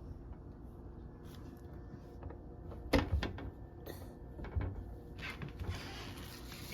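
A locked door or cupboard being tried by a small child: a sharp knock about three seconds in, then a few smaller clicks and bumps.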